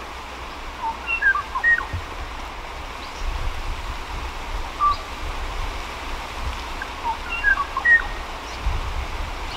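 Kauaʻi ʻōʻō (Moho braccatus) singing: a short phrase of clear, whistled notes about a second in, repeated about seven seconds in, with a single note between them. Steady background hiss and a low rumble run underneath.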